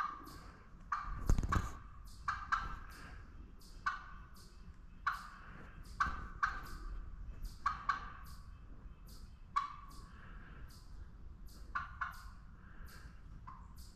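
A bird calling over and over in short calls, roughly one to two a second at uneven spacing. A brief thump about a second and a half in is the loudest sound.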